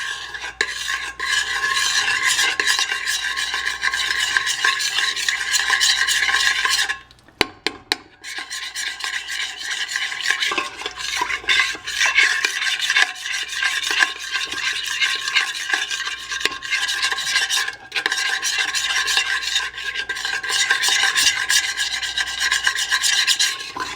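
A spoon stirring and scraping steadily around the inside of a pot, dissolving unflavored gelatin into warm water and working out the lumps. The stirring stops for about a second around seven seconds in, then carries on.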